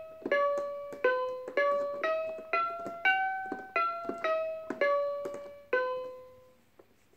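An electronic toy's speaker plays a simple piano-like melody, one note at a time at about two notes a second. The tune ends on a longer note that fades out about six seconds in.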